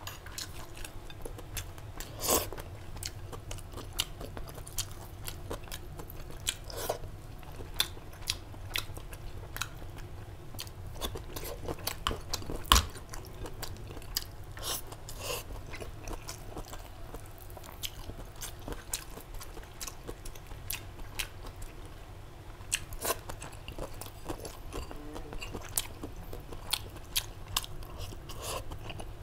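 A person chewing and crunching food, crisp pickled vegetables with rice, in a steady run of short crunches and clicks, with one louder knock about halfway through.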